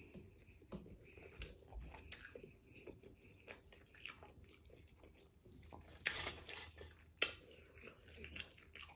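Close-up mouth sounds of a person chewing a chicken burrito: soft, wet clicks and smacks at an uneven pace. A louder, noisier sound about six seconds in stands out, with a sharp click just after.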